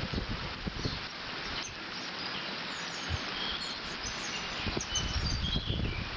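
Water rushing steadily through a beaver dam, with small birds chirping over it and wind buffeting the microphone in low gusts in the second half.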